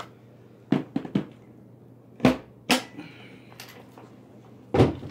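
A series of hard knocks and clunks from a vacuum cleaner's plastic parts being handled: three quick knocks about a second in, two louder ones a little after two seconds, and more near the end.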